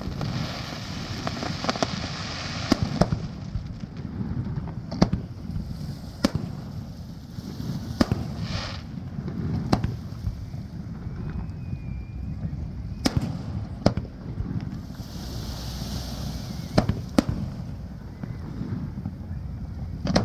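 Fireworks display: aerial shells bursting in sharp bangs at irregular intervals, a dozen or so in all. There are stretches of hissing crackle in the first few seconds and again about fifteen seconds in.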